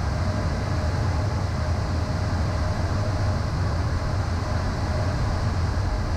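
Steady cockpit drone of a Beechcraft Premier I business jet in descent: airflow and twin-turbofan engine noise, heaviest as a deep rumble, with a faint steady whine above it.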